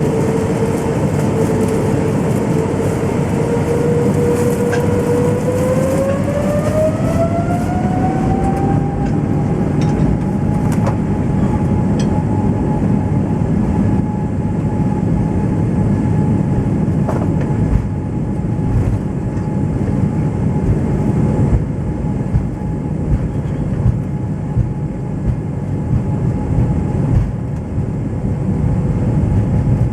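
Boeing 777-300ER's GE90 turbofan engines spooling up to takeoff thrust: a steady whine climbs in pitch over a few seconds, then holds over a heavy rumble. Scattered knocks come through the rumble in the second half.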